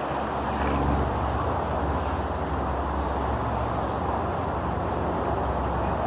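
Steady jet aircraft engine noise, a continuous rush with a low hum underneath.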